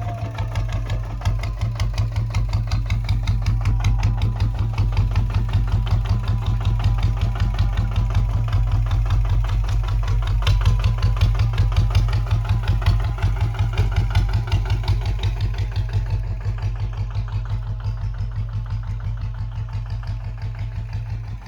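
Kubota ZT155 single-cylinder diesel engine running with a steady, regular chugging beat, getting somewhat quieter toward the end.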